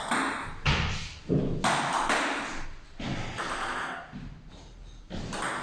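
Table tennis rally: the celluloid ball clicking off the bats and bouncing on the table, several sharp hits at irregular intervals.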